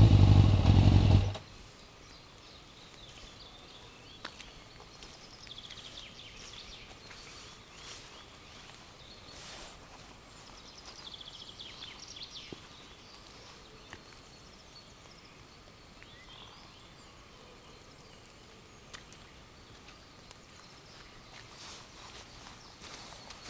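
Suzuki GSX-R motorcycle engine running steadily, then cut off abruptly about a second in. After that there is only quiet outdoor background, with faint short bird chirps and an occasional small click.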